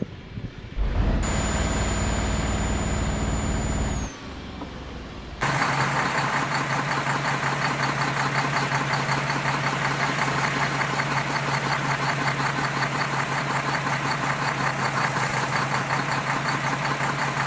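Vehicle engine sound in two parts: a steady engine-like sound with a high whistle that dips and stops about four seconds in, then after a short lull a steady running engine with a fast regular pulse that starts abruptly.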